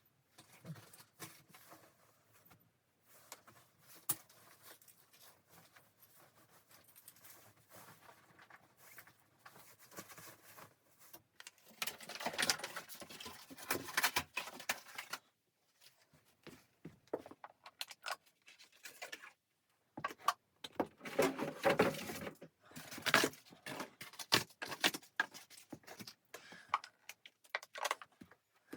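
Irregular clicks and knocks of objects being handled, with two louder stretches of rustling or scraping, one about twelve seconds in and one about twenty seconds in.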